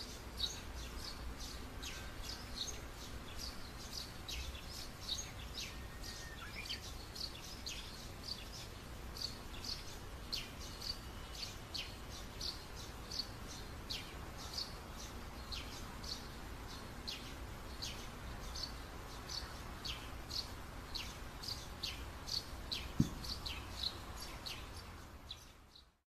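Small birds chirping in short, high notes several times a second, over a faint low steady hum, fading out at the end.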